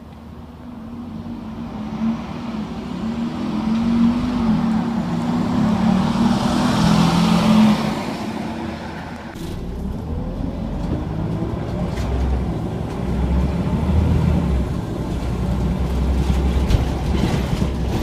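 Scania OmniCity single-decker bus engine pulling away, building for about eight seconds, easing off suddenly, then pulling again with a faint rising whine and a few sharp rattles.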